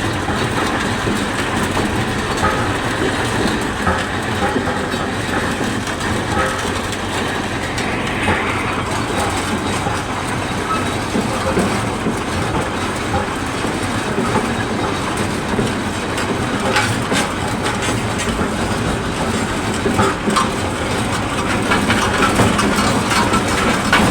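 Britannia Road Master road roller running, a steady engine noise with a continuous mechanical clatter that grows a little louder near the end.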